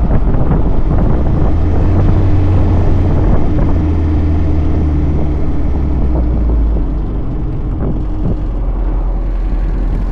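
1963 Triumph TR4's four-cylinder engine running under way in the open-top car, heard from the cockpit with road and wind noise. The engine note eases off a little about seven seconds in.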